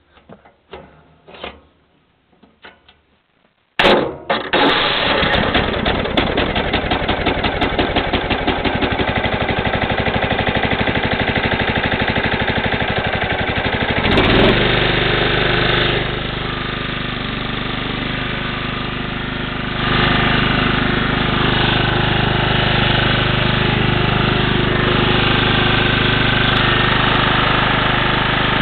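Sears Craftsman LT1000 riding lawn tractor's engine on a cold start after a week unused: the starter cranks it for about ten seconds with a fast even pulsing, then it catches about fourteen seconds in and settles into a steady run.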